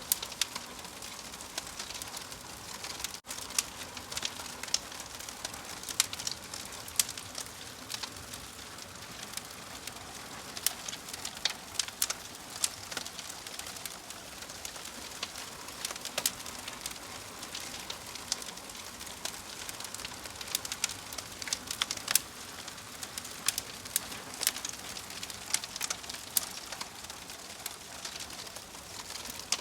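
Wood fire crackling, with sharp, irregular pops and snaps over a steady hiss.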